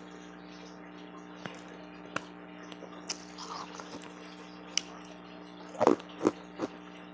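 Close-up ice eating: a few scattered sharp clicks, then three loud crunches in quick succession near the end as hard refrozen ice is bitten. A steady low hum sits underneath.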